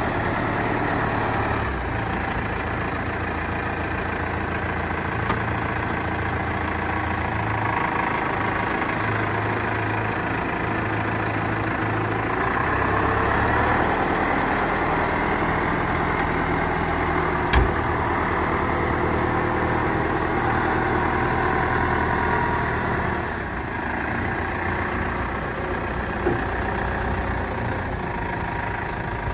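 Diesel engine of a Case International 95 tractor running steadily at idle, with one sharp click about two-thirds of the way through.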